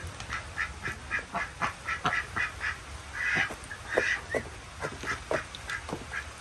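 Ducks quacking in a quick run of short calls, then two longer, louder quacks about three and four seconds in, over steady rain.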